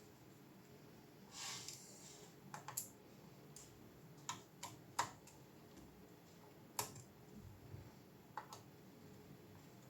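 Irregular light clicks and taps, about ten spread over the stretch, with a brief soft hiss about a second and a half in.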